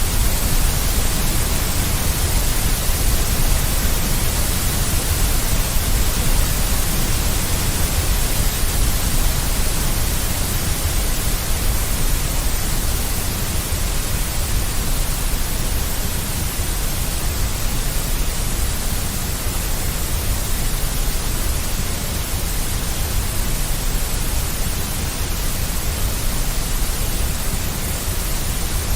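Synthetic white noise with heavy deep bass, a steady even hiss and rumble.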